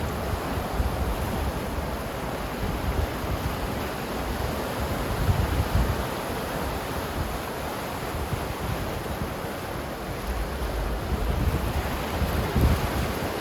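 Ocean waves breaking on a shore, a continuous wash of surf with low rumbling swells rising about five seconds in and again near the end.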